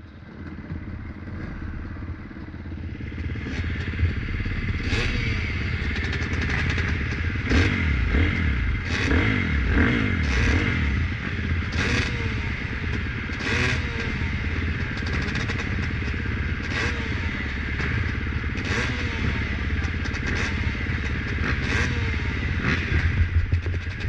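Several motocross dirt bikes running and revving together, engine pitch rising and falling as they accelerate and shift, with sharp spikes every second or two. The sound swells over the first few seconds, then stays loud.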